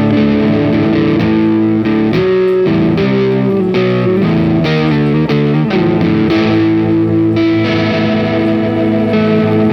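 Electric guitar played through effects: ringing held chords, with a run of single notes in the middle.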